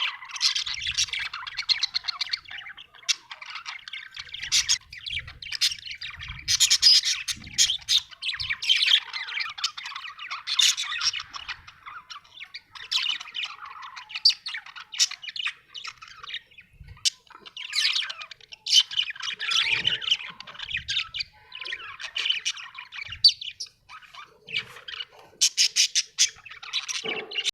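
Budgerigar chirping: a continuous run of short, quick high calls with brief pauses.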